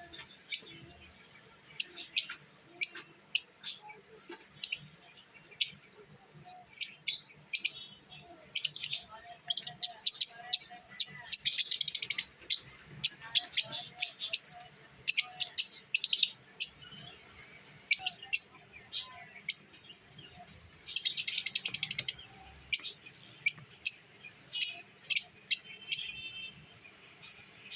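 Lovebirds giving short, sharp, high chirps at irregular intervals, breaking twice into bursts of rapid, dense chattering.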